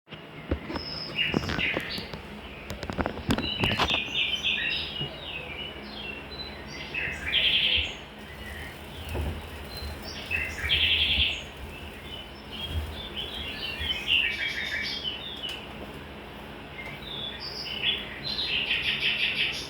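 Small birds chirping and trilling again and again in short bursts, with several sharp clicks in the first few seconds.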